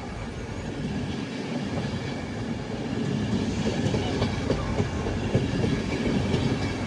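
LNER InterCity 225 train passing through at speed: a steady rumble of wheels on rails that builds louder, with the clickety-clack of wheels over the track.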